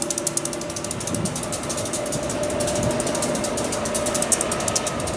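SEPTA push-pull commuter train moving off along the track, with its AEM-7 electric locomotive at the rear passing close by: a steady hum with a faint steady tone, and a rapid, even high-pitched clicking throughout.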